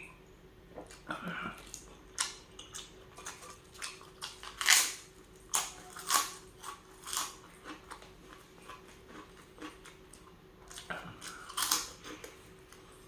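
Close-miked eating sounds of a person eating tuna sisig: irregular wet chewing, lip smacks and short clicks, loudest about five seconds in and again near the end.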